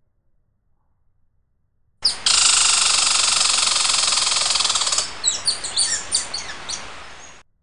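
Songbird calls that start abruptly after a near-silent pause: a loud, fast buzzing trill for about three seconds, then a string of quick, high, down-slurred chirps that fade and cut off suddenly.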